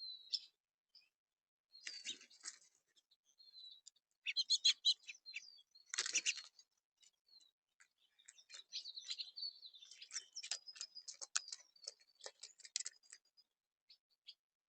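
Small backyard songbirds chirping and calling in short, sharp notes and ticks, coming in scattered clusters and busiest in the second half.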